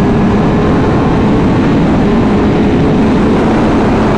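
Honda Fireblade's 999 cc inline-four engine running at a steady pitch under way on the road, with the rush of riding noise.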